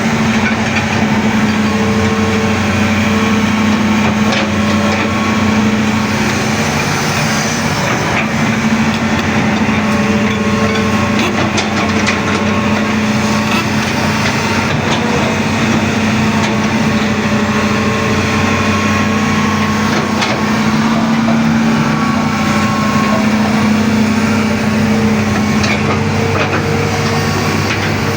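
Excavator engine running steadily, a constant low drone with no change in speed.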